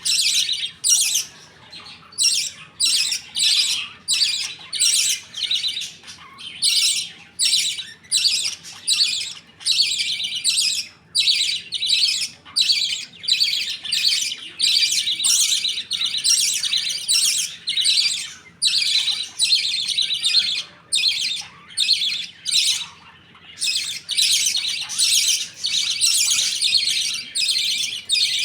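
Budgerigars giving a steady run of short, harsh chirps, about two a second, with a brief break near the end.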